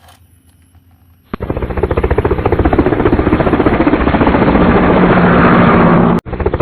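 Helicopter rotor beating rapidly over a steady engine hum, starting suddenly about a second and a half in and cutting out for a moment near the end.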